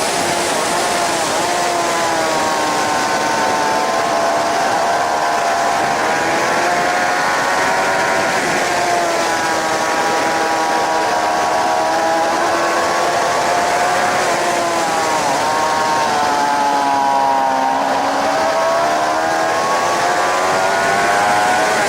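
Suzuki GSX-R 750 K7's inline-four engine heard from on board, its revs rising and falling gradually as the rider works the throttle, under a heavy rush of wind noise.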